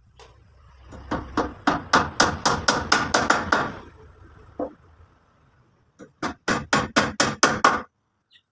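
Hammering during house repair: two quick runs of hammer blows, about four strikes a second, with a single knock between the runs.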